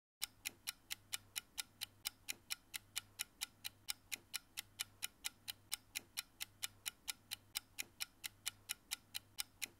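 Clock-style ticking sound effect for a quiz countdown timer: sharp, evenly spaced ticks, about four a second, over a faint low hum.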